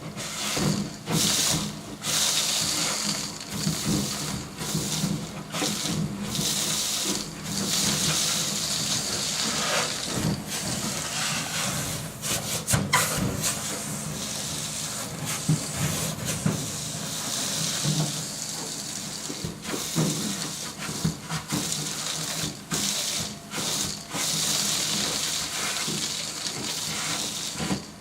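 Duct-cleaning vacuum pulling air through its hose, a steady rushing over a low motor hum. The rushing swells and drops again and again, broken by short knocks and clicks.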